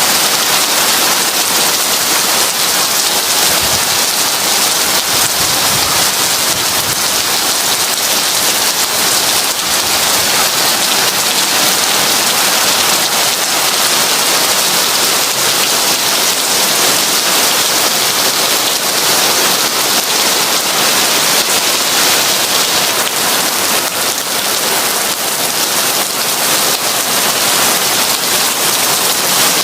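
Heavy rain falling steadily on a window and porch: a dense, even hiss with fine pattering drops.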